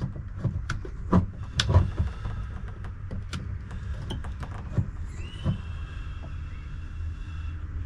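Sharp clicks and knocks of tools and wiring being handled during soldering work, over a low steady rumble. About five seconds in, a steady high whine starts and holds until near the end.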